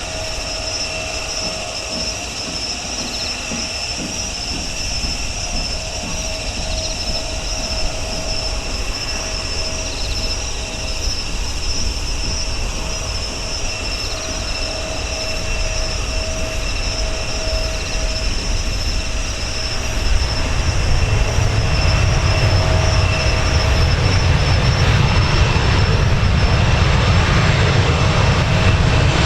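Boeing 737-800 jet with CFM56 engines coming in to land: a steady high engine whine over a background hiss, then a deep rumble that swells about two-thirds of the way through as the aircraft draws near.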